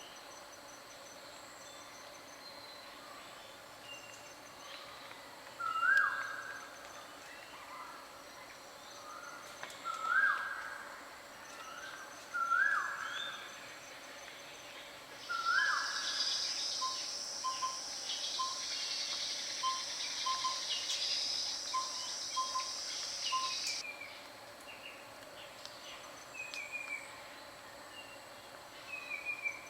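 Forest birds calling: four loud short calls spaced a few seconds apart, then a run of quick soft notes, and short falling notes near the end. An insect buzz comes in midway and cuts off suddenly.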